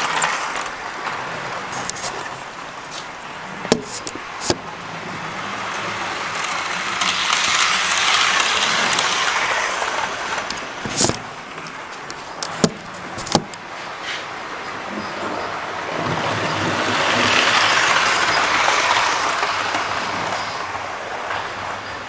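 OO-gauge model train running on the layout, its rushing motor-and-wheel noise growing louder and fading away twice as it comes round past the microphone. A few sharp clicks cut in between, about four seconds in and again around eleven to thirteen seconds.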